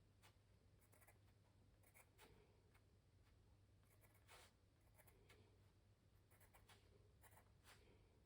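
Pencil drawing on canvas: short, faint scratching strokes at irregular intervals.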